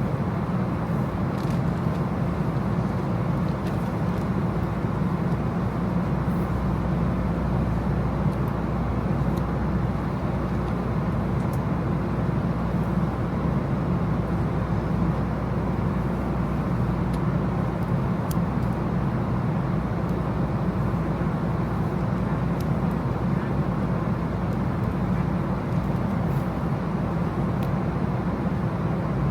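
Steady rumble of a road vehicle in motion, engine and tyre noise with no change in pace.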